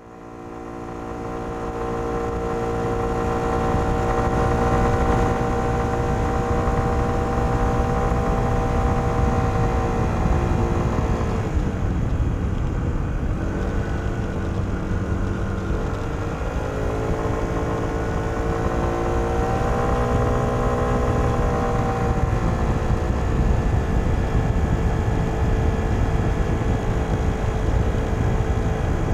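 Kymco Downtown 125i scooter's single-cylinder four-stroke engine through its stock exhaust, heard onboard while riding, with wind and road rumble underneath. The engine note fades in, holds fairly steady, drops away about eleven seconds in as the throttle is eased, then climbs back a few seconds later and holds again.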